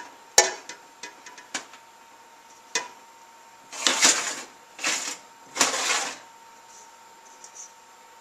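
A few light clinks of kitchenware against glass, then vinegar-and-sugar brine poured over packed cucumber slices in glass jars in three short pours.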